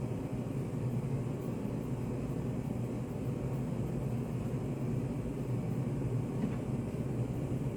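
Steady low hum of study-café room ambience, a constant machine-like drone with no speech. A faint click comes about six and a half seconds in.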